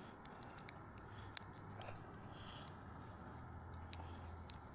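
Faint scattered clicks and light rustling from fibre drop cable being handled and coiled into a loop, over a faint low hum.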